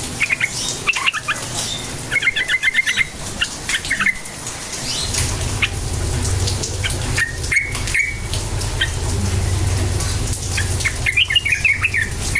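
Yellow-vented bulbul (trucuk) calling in short bursts of rapid chattering notes, with a few gaps between phrases. A low steady rumble lies underneath through the middle stretch.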